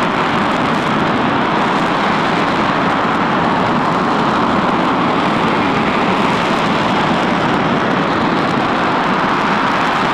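Rocket engine on a static test stand, firing at a steady full roar: a dense, unbroken rush of noise that neither rises nor falls.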